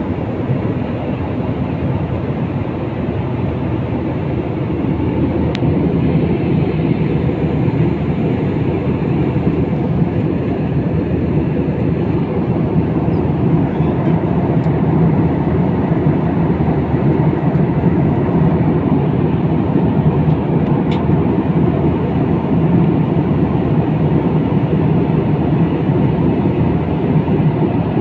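Steady engine and airflow noise inside a jet airliner's cabin in flight.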